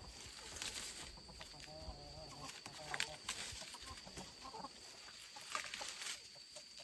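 Chickens clucking in short calls, with a few scattered sharp clicks and knocks and a faint steady high tone in the background.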